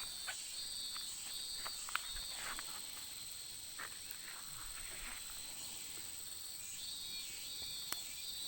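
Insects chirring: a steady high trill runs throughout, and a second, pulsing trill drops out in the middle and comes back near the end. A few small clicks and knocks sound over them.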